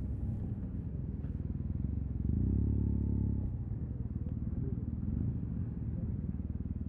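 Yamaha TMAX 560 parallel-twin engine running at low revs through an Akrapovic carbon full-system exhaust, in stop-and-go traffic. It swells briefly with a short throttle opening about two seconds in, then settles back to a low, pulsing burble.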